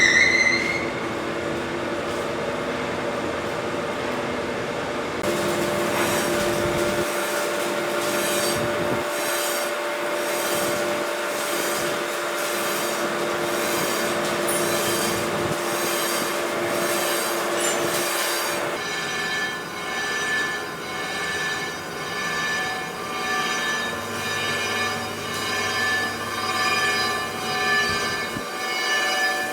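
A crankshaft grinding machine regrinding a diesel engine's crankshaft journals. It gives a steady squealing, rubbing hum with a pulse about once a second, and its tone changes partway through.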